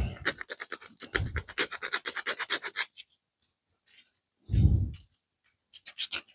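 Quick repeated scraping strokes on a small plastic model-kit part, cleaning up the spot where it was cut from the sprue, about ten strokes a second for three seconds, then a dull bump and a few more strokes near the end.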